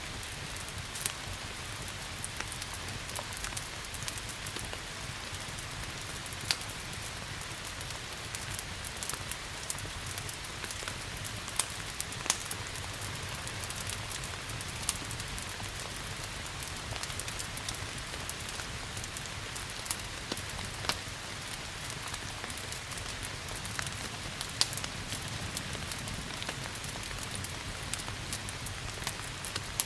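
Steady rain hiss mixed with the crackling of a wood fire in a fireplace: sharp pops scattered throughout, a few of them louder.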